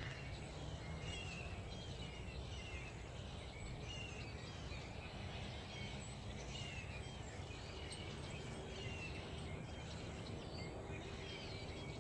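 Wild birds singing: faint short chirps and phrases from several birds repeating throughout, over a low steady outdoor background hum.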